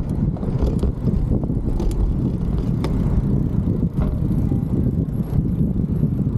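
Wind buffeting the camera microphone on a moving bicycle: a steady, loud low rumble, with a few faint clicks.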